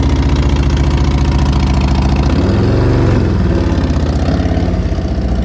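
Harley-Davidson motorcycle's V-twin engine idling with a fast, even pulse, given a brief blip of throttle about two and a half seconds in that rises and falls back to idle.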